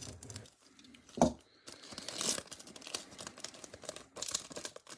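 Foil wrapper of a Bowman Platinum trading card pack crinkling and tearing as it is opened by hand, with one knock about a second in.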